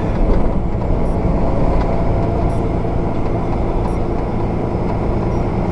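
Diesel engine and road noise of a semi truck heard from inside the cab while driving, a steady low hum, with faint light ticks about every one and a half seconds.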